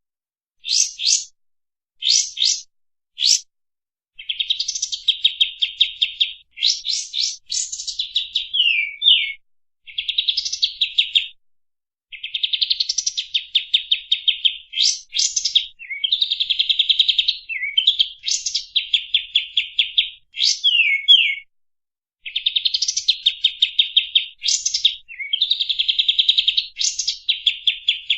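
Kapas tembak singing its fast, dense 'shooting' song: long runs of rapid repeated notes, broken by quick downward-slurred notes and short pauses between phrases.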